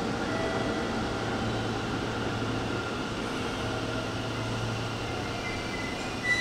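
Hanshin electric train at a station platform: a steady rumbling hum with faint whining tones, and a short sharp squeal near the end.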